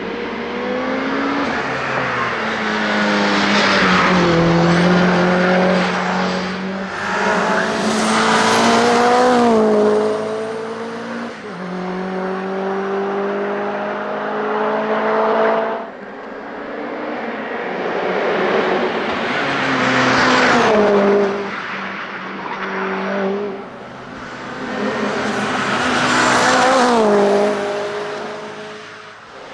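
Mitsubishi Lancer Evolution VIII hillclimb car with a tuned 2-litre turbocharged four-cylinder, accelerating hard through the gears: the revs climb and drop back at each shift. The engine grows louder and fades several times, loudest at about 4, 9, 20 and 27 seconds in.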